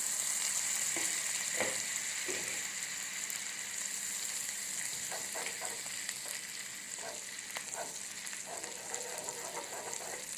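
Butter melting and sizzling in a hot pan at the start of a white sauce: a steady hiss that slowly fades, with a few faint taps.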